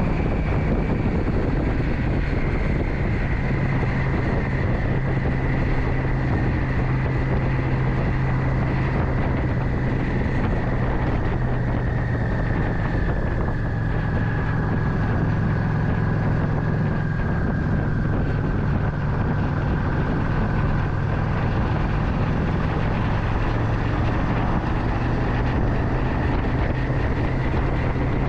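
Motorcycle engine running steadily while riding, with wind rushing over the microphone. A faint high whine sinks slowly in pitch midway through.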